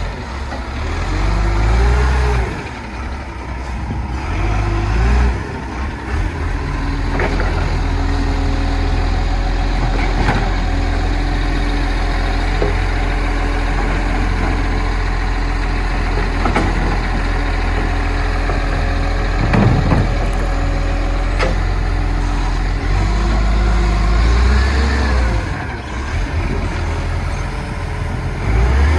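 Garbage truck's diesel engine running steadily, revving up briefly near the start, about five seconds in and again near the end, with several sharp knocks in between.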